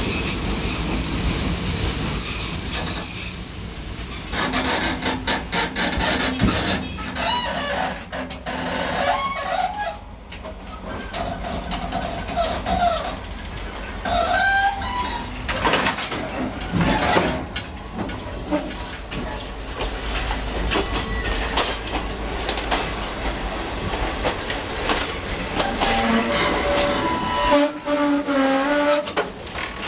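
Passenger train running, heard loud and open-air from the gangway between carriages: a steady rumble and rattle of the cars with wheels clattering on the rails, and wavering metallic wheel squeals that come and go.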